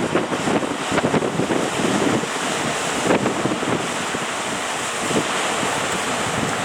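Sea surf washing steadily, with strong wind gusting and buffeting the microphone.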